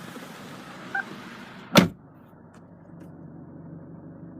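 A short electronic beep, then a Chevrolet Captiva's door shutting with one loud thud; afterwards the sound is muffled as from inside the closed cabin, with a steady low hum.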